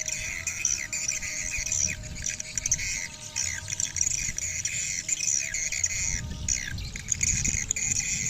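Many swiftlets twittering at once, a dense stream of rapid, overlapping high chirps.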